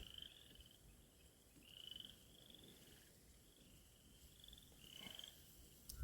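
Frogs calling faintly from the marsh: short, slightly rising pulsed trills, repeated about five times.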